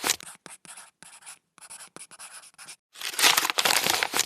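Rustling, crinkling noise in quick irregular bursts, softer through the middle and louder again about three seconds in.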